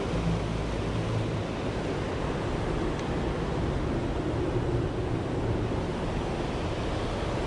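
Creek water pouring steadily over a spillway, a continuous rushing with no breaks.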